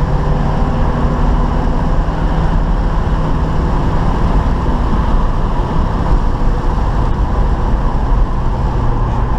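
A 1972 Chevy Nova's 350 small-block V8 running steadily under way, with road and wind noise; the engine note settles slightly lower about halfway through.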